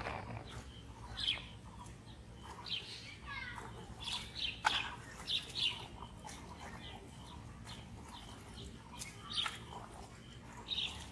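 Birds chirping: short, high calls scattered irregularly, over a steady low background rumble.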